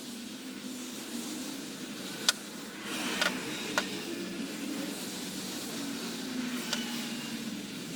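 A few sharp clicks, four in all, over a steady low hum: small parts being handled and knocked together while the lawn tractor's transmission is being cleaned.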